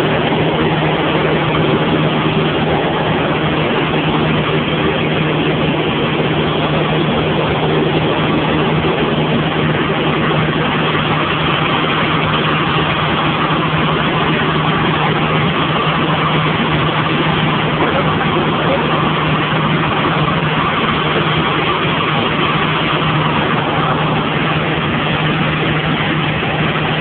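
Cessna 172's piston engine and propeller droning steadily, heard from inside the cabin: a constant low hum over an even rush of noise, with no change in pitch.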